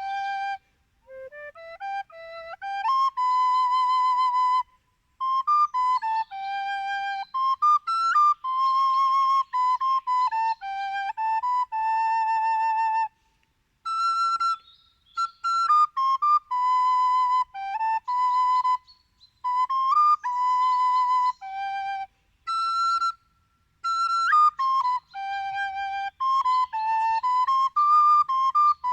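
A solo flute playing a slow melody in short phrases, with vibrato on the held notes and brief pauses between phrases.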